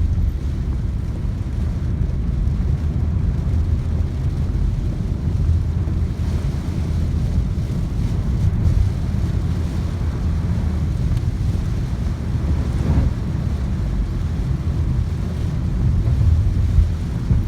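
Heavy downpour and running water, with wind buffeting the microphone, making a steady low rumble throughout.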